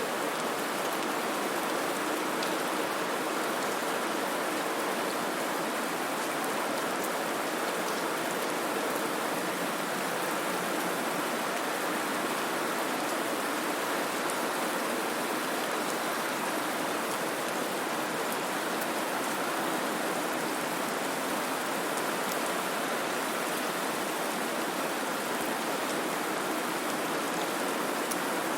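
Steady white-noise hiss, even and unchanging, spread across the treble with little bass.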